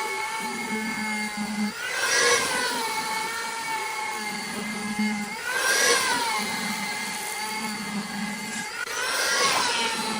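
Electric woodworking power tool running with a steady whine, which swells and bends in pitch three times, about every three and a half seconds, as the tool is loaded.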